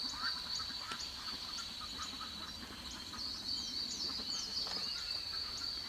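Forest ambience: a steady high-pitched insect drone with short bird chirps repeating every half second or so and a few quick falling whistles about midway.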